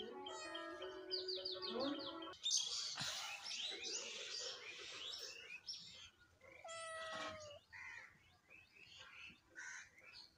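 Birds chirping in a dense burst of high calls, with a cat meowing once, a short falling call about seven seconds in. Soft background music plays for the first two seconds.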